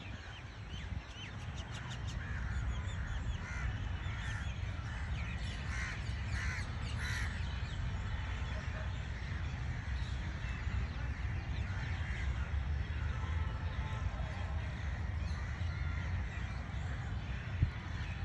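Birds calling over and over, thickest in the first half and thinning out later, over a steady low rumble. A single short knock near the end.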